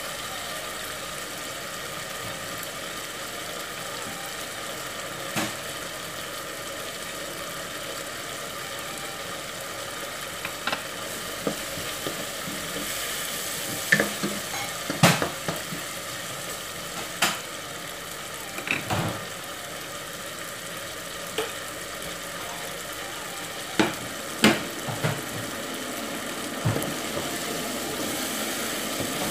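Chicken pieces sizzling as they fry in a pot, stirred with a spatula. Sharp knocks and scrapes of the spatula against the pot come now and then, most of them in the second half.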